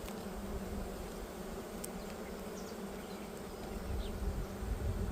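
Honeybees buzzing in a steady hum over an open hive frame during an inspection. A low rumble rises underneath about four seconds in.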